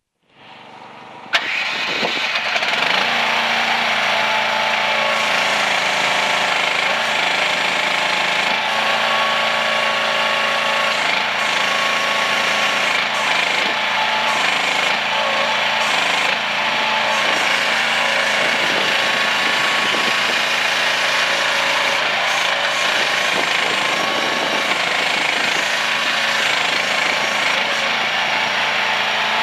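Small engine of a CFG MH12RX mini excavator starting up about a second in, then running at a steady speed with a clattery note.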